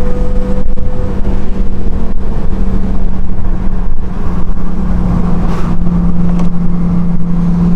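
Yamaha R6 inline-four sport bike engine running steadily through a Graves aftermarket exhaust with the catalytic converter removed, its pitch holding nearly level throughout.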